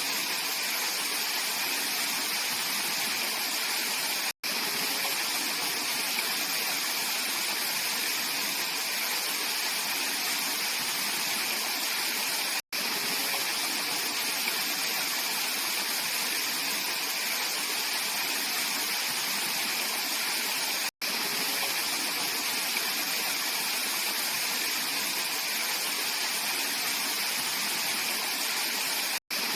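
Mountain valley stream flowing: a steady, even rush of water, broken by a momentary silent dropout about every eight seconds.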